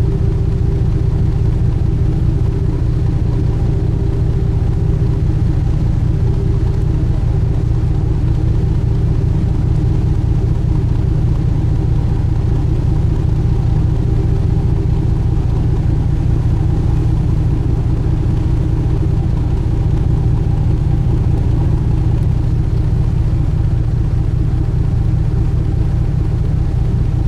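A sightseeing cruise boat's engine, heard aboard as a steady, unchanging low drone with a faint hum on top.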